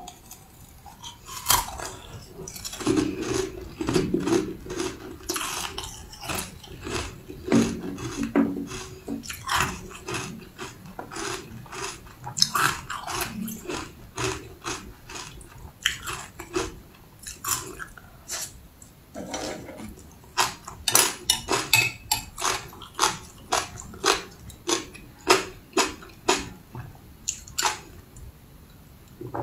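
A person chewing and biting crunchy candy, a long run of sharp, irregular crunches and mouth clicks.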